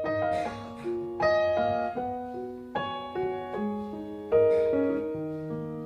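Solo piano playing a slow introduction: single notes and chords struck one after another, each left ringing and fading.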